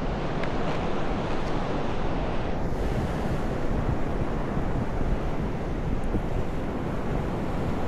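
Ocean surf breaking and wind buffeting the microphone: a steady rushing noise with no distinct events.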